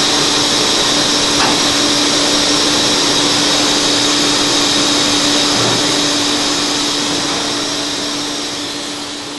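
Studer S41 CNC cylindrical grinding machine running: a steady, loud machine hiss with a constant hum underneath. It fades out gradually over the last couple of seconds.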